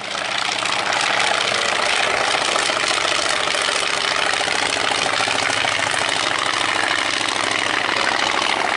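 Vintage aircraft's piston engine running steadily close by, with a fast, even firing beat.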